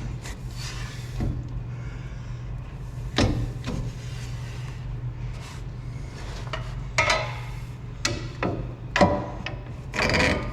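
Hand work on a truck's front suspension while a coilover is being worked free: scattered metal knocks, clunks and scraping, the loudest about 3, 7, 9 and 10 seconds in, over a steady low hum.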